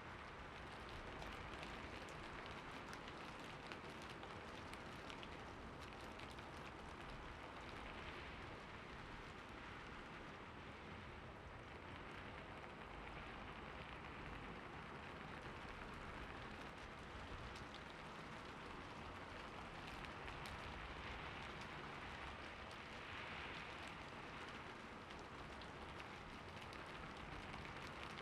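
Steady rain falling on a surface, quiet: an even hiss dotted with many separate drop ticks.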